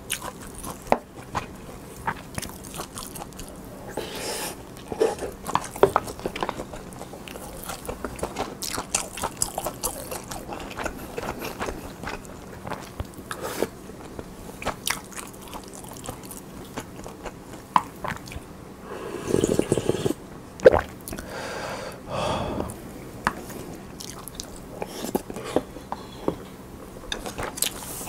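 Close-miked chewing and biting mouth sounds of a person eating pollock-roe soup, many small wet clicks, with one longer, louder wet stretch about two-thirds of the way in.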